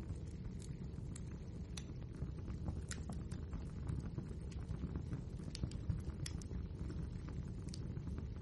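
Wood fire burning: a steady low rumble of flame with irregular sharp crackles and pops from the logs.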